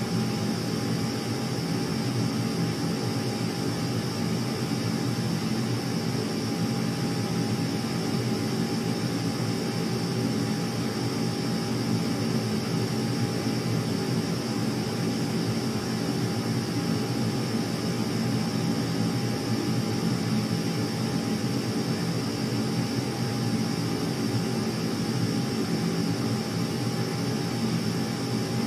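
Aircraft engines running steadily with a constant whine over a low rumble, unchanging throughout.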